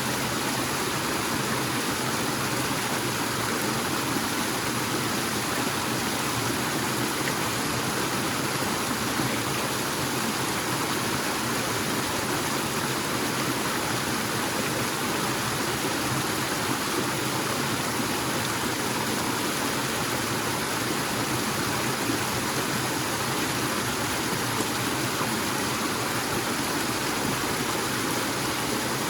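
Forest waterfall pouring in a steady, unbroken rush of water.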